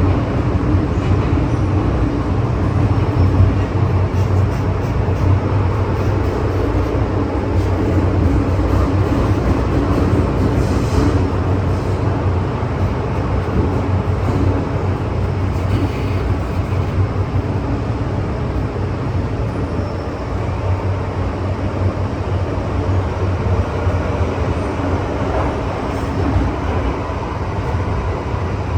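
MTR Tsuen Wan Line M-Train electric multiple unit running between stations: a steady low rumble of wheels on rail with a faint hum.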